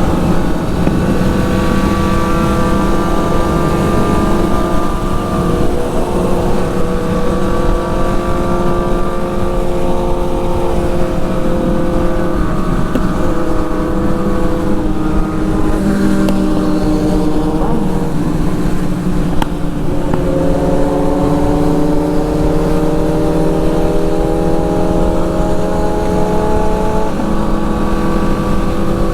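Motorcycle engine running at road speed, its pitch drifting slowly up and down with the throttle and climbing steadily in the last third, over a steady low rumble.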